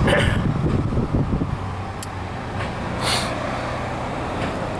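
Steady low rumble of motor vehicles, with brief hissing swells near the start and about two and three seconds in.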